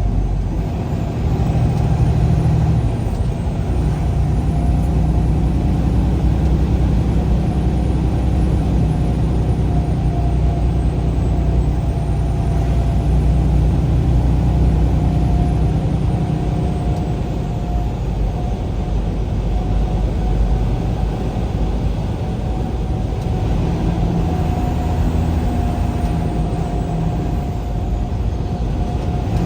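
A vehicle driving along a road at a steady pace: continuous low engine and road rumble, with a steady whine over it.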